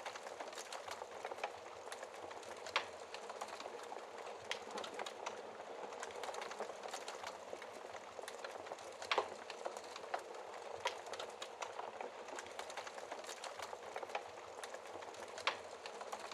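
Wood fire crackling in a fireplace: a steady hiss full of small snaps, with a few louder pops, about three in all.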